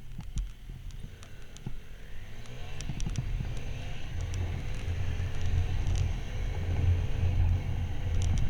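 Motorcycle engine running under a low rumble, its note rising and growing louder from about three seconds in as it picks up speed.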